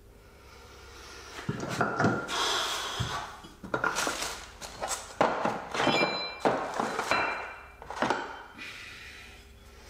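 Metal tooling pieces, such as press sleeve cups, being handled, knocked together and set down in a tool case. It comes as a string of irregular clunks and clinks for several seconds, while sizes are tried to find one that fits.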